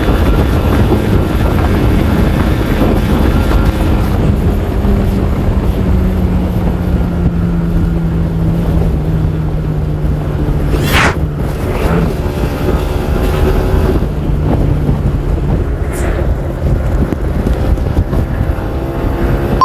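Kawasaki Ninja R 150's two-stroke single-cylinder engine running under a heavy low rumble of wind on the microphone, its note drifting slowly lower through the middle.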